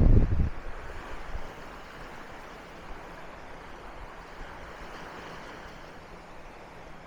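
Wind buffeting the microphone with a heavy low rumble that dies away about half a second in, then the steady wash of small surf breaking on a sandy beach.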